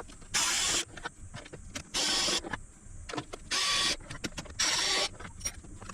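Electric screwdriver running in four short bursts of about half a second each, with small clicks of handling between them: case screws being driven out.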